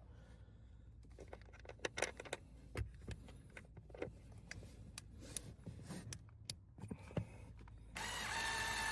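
Scattered light clicks and knocks of plastic parts being handled as a replacement A/C blower motor is pushed into its housing and will not seat. A steady hiss starts near the end.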